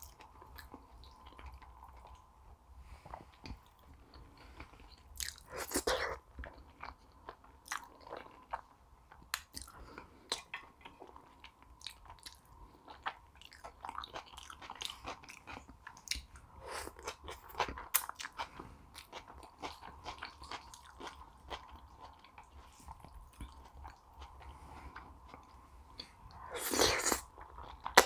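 Close-miked chewing and biting of food: many small wet mouth clicks and smacks, with two louder stretches, one about six seconds in and one near the end.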